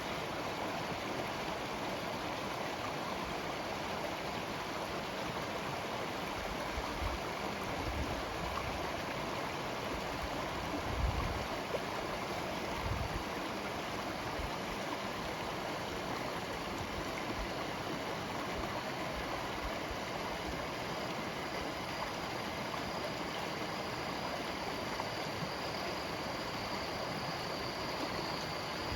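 Steady rush of heavy rain in a storm, with a few low thumps partway through.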